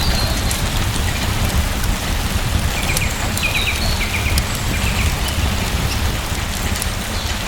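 Steady rain falling, with a deep low rumble beneath the patter. A few short high chirps sound in the middle.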